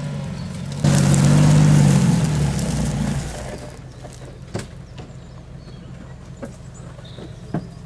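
Off-road vehicle's engine running steadily, then sharply louder about a second in for a couple of seconds as it is revved, dropping back to a quieter steady run with a few sharp clicks near the end.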